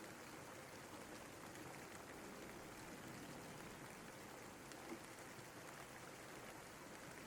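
Steady rain falling, a faint even hiss with scattered drop ticks and one slightly louder drop about five seconds in.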